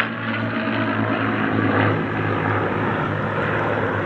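Propeller-driven piston aircraft engine running steadily, a continuous low drone.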